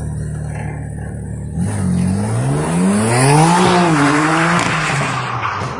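Car engine running steadily, then revving up from about a second and a half in, its pitch rising, dipping and rising again, with a building hiss of tyre noise.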